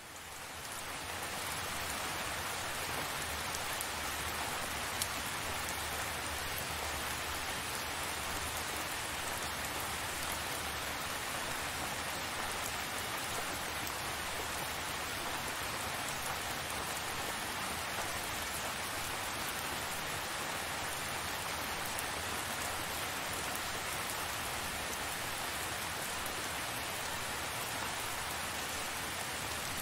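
Steady rain falling, an even hiss of many drops, fading in over the first two seconds and then holding level.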